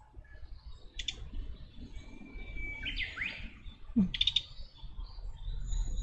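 Songbirds calling: quick clicking chirps about a second in and again around four seconds, with a thin held whistle and fast rising notes in between.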